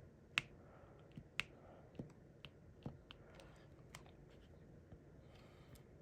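Irregular small sharp clicks and taps of diamond painting: a drill pen picking up plastic resin drills and pressing them onto the adhesive canvas, with a brief soft rustle near the end.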